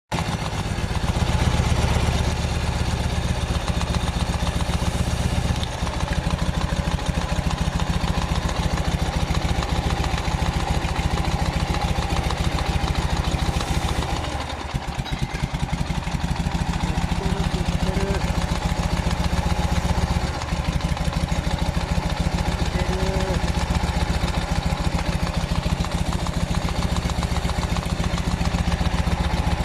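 Engine fed by an SU carburettor idling steadily, with a brief dip about halfway through. The owner traces the air leak to the intake manifold gasket rather than the vacuum port.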